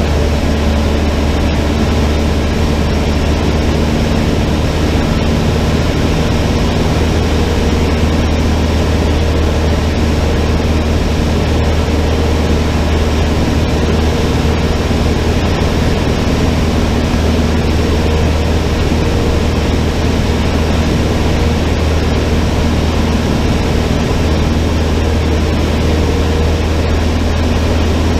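Cessna 152's four-cylinder Lycoming piston engine and propeller running at a steady, even power setting, a loud unbroken drone.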